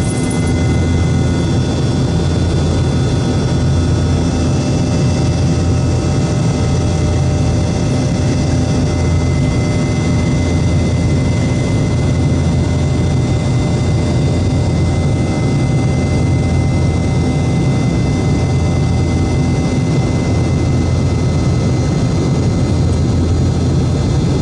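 Boeing 717's tail-mounted Rolls-Royce BR715 turbofans at high thrust, heard inside the cabin from a rear window seat: a steady loud rumble with several steady whining fan tones over it.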